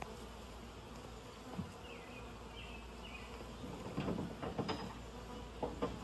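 Honeybee swarm buzzing steadily. A few short knocks and clicks come about four seconds in and again near the end.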